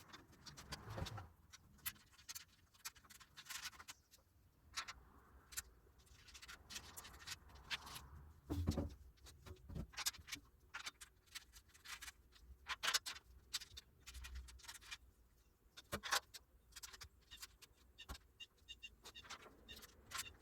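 Scattered light metallic clinks, taps and a few soft knocks of steel stand parts and bolts being handled during assembly of a bolt-together grinder stand.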